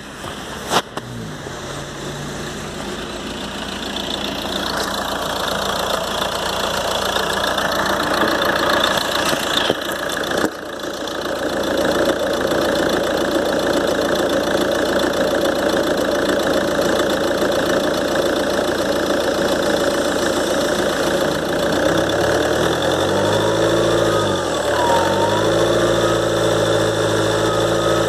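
Ford Transit 2.2 TDCi diesel engine running from a cold start, with the whistle of its freshly rebuilt turbocharger. The owner takes the whistle for imbalance in the turbo. The engine note dips briefly and recovers near the end.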